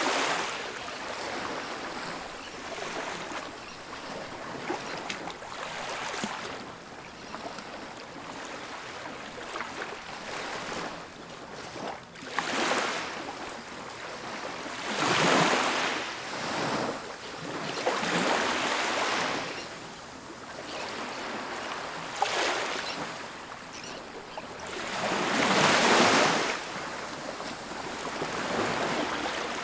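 Ocean waves breaking on a beach. Each wave swells into a loud rush of surf and then fades back to a steady wash, about every three to four seconds, with the biggest breakers about halfway through and near the end.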